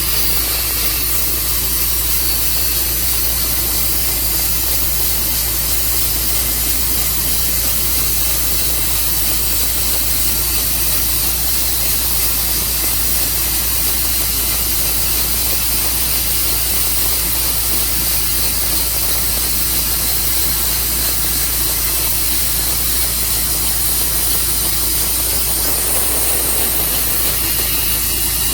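Tru Cut sawmill running steadily, its engine and blade making an unbroken, even noise.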